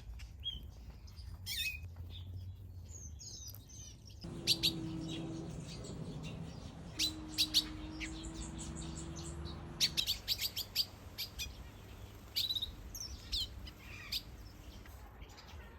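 Aviary finches and softbills chirping and calling, with many short sharp notes in quick runs and a few slurred whistled notes. A steady low hum sounds twice in the middle.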